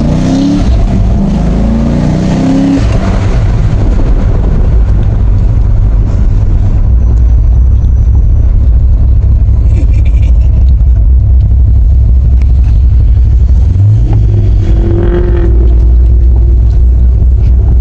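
Car engine accelerating hard, its note rising three times in quick succession as it shifts up through the gears. It then settles into a steady, heavy low drone with another short rise in pitch near the end.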